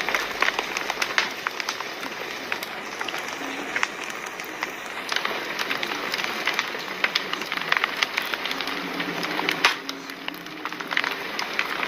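Fire crackling: a steady hiss with frequent sharp pops and snaps.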